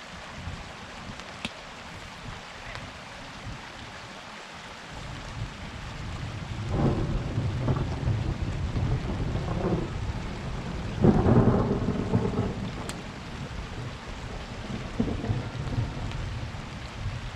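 Steady rain with thunder rolling in about six seconds in: a long rumble in several surges, loudest a little past the middle, then easing off as the rain goes on.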